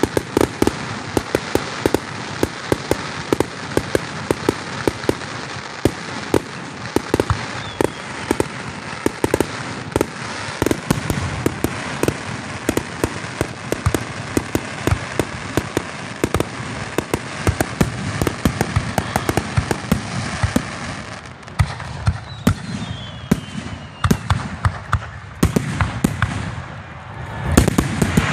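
Fireworks display: aerial shells bursting into dense, rapid crackling, which thins out after about twenty seconds, then a louder, deeper burst near the end.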